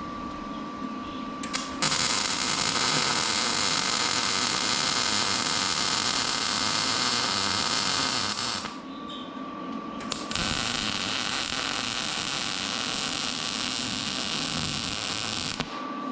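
Electric welding arc running in two welds, one of about seven seconds and one of about five, each starting and stopping abruptly, with a short pause between them.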